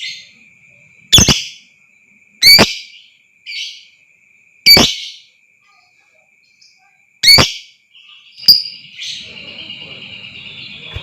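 Lovebird giving short, sharp, shrill calls, about six of them spaced a second or two apart, over a steady high-pitched tone. About eight seconds in, a denser continuous chatter starts up underneath.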